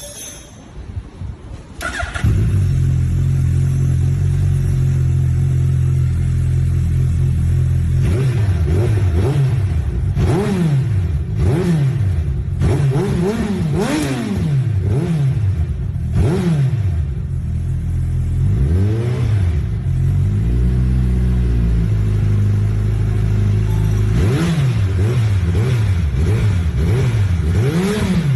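Suzuki Hayabusa motorcycle's inline-four engine starting about two seconds in, idling steadily, then revved repeatedly in quick rising-and-falling blips through its exhaust, with a short steadier idle stretch before the revving resumes.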